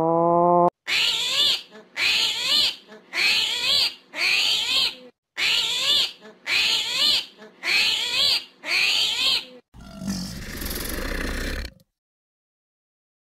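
Armadillo calls: a run of eight short, loud calls about a second apart, each wavering up and down in pitch. A brief rising call comes at the very start, and a rough, noisy sound lasting about two seconds comes near the end.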